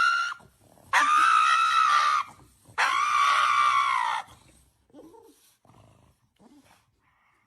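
A pet animal screaming in three long, high, level calls, each about a second to a second and a half and dropping slightly at the end, followed by a few faint short sounds.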